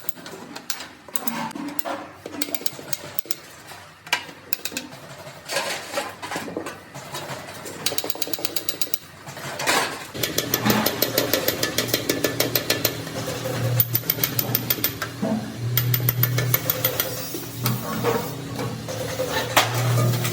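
Workshop machinery: many short metallic clicks and knocks, joined about halfway by a low machine hum that comes and goes.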